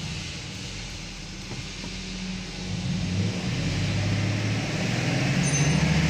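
Mercedes S500's V8 engine running, growing louder about halfway through as it picks up a little.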